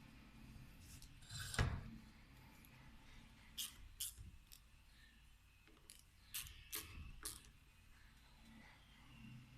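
Sharp metallic clicks and clinks of hand tools and small parts being handled: one heavier knock about a second and a half in, then about six quick clicks over the next few seconds.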